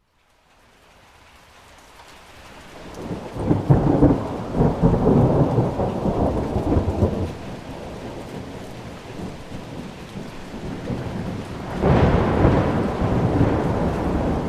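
Rain falling with thunder rolling twice, the first long rumble from about three seconds in to about seven, and the second starting near twelve seconds. The rain swells up out of a brief silence at the start.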